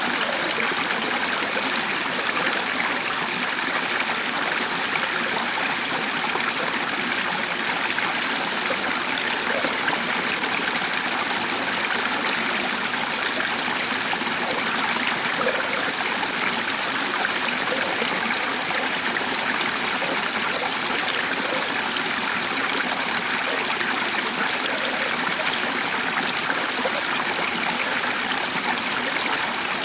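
Running water of a stream, an even, steady rush.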